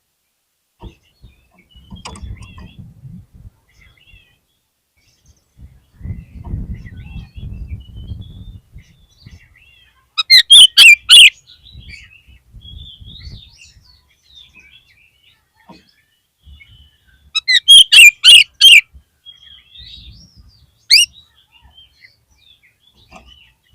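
Oriental magpie-robin (kacer) calling: two loud bursts of rapid, sharp, high notes, one about ten seconds in and one about seventeen seconds in, a single sharp note a few seconds later and softer scattered notes in between. A low rumble comes and goes in the first half.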